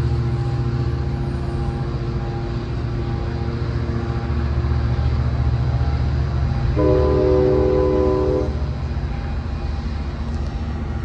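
Amtrak passenger train pulling away, its diesel engine rumbling steadily. About seven seconds in, the multi-note horn sounds once for roughly a second and a half.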